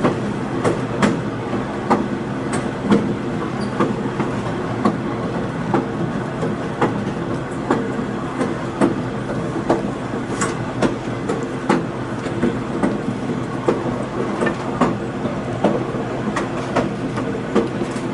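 Passenger train rolling along the track, heard on board: a steady rumble of wheels on rail with frequent irregular clicks and knocks.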